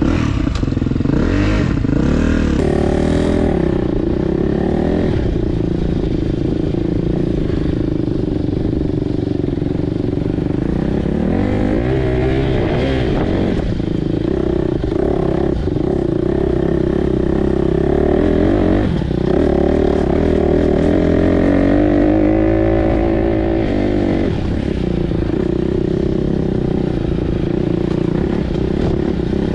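Four-stroke single-cylinder dirt bike engine under riding load. The revs rise and fall as the throttle is worked, with a long climb in pitch about two-thirds of the way through and a sudden drop near the end.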